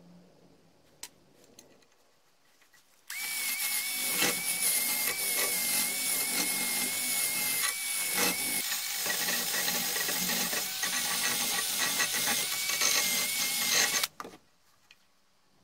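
An electric power tool, such as a drill, runs for about eleven seconds at a steady speed, with a constant whine over a rough, dense hiss. It starts abruptly a few seconds in and cuts off suddenly near the end. A few faint clicks come before it.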